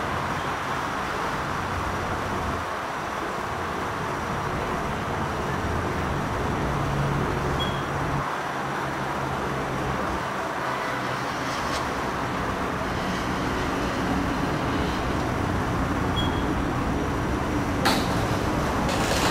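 Steady background rumble and hiss, with a faint short high beep twice and a couple of sharp clicks near the end.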